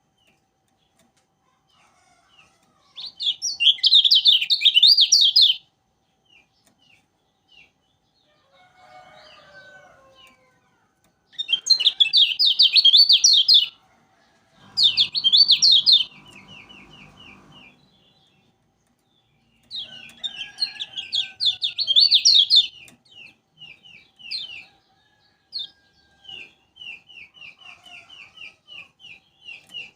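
Kecial kuning songbird singing loud bursts of rapid, high trilling chatter, four of them, with runs of short repeated chirps between the bursts.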